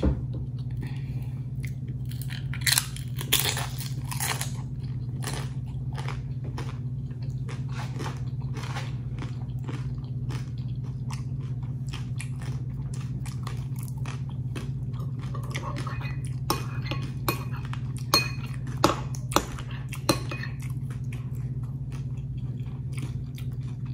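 Crunchy tortilla chips being bitten and chewed: a run of sharp crunches, the loudest about three seconds in and again near 19 to 20 seconds. A steady low hum continues underneath.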